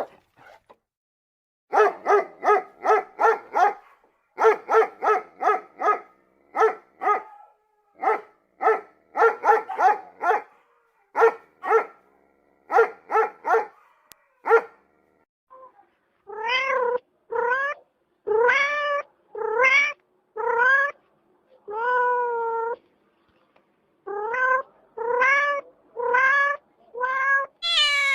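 Repeated animal calls: first quick short calls in runs of about five, then, from about halfway, longer cries that rise and fall in pitch, roughly one a second.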